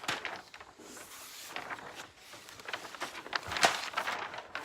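Rustling and crinkling of a rolled diamond painting canvas and its plastic cover film being unrolled and handled, with irregular crackles and a louder crinkle about three and a half seconds in.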